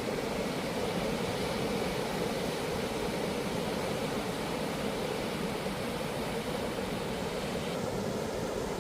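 Ocean surf breaking on a beach: a steady, even wash of noise with no single wave standing out.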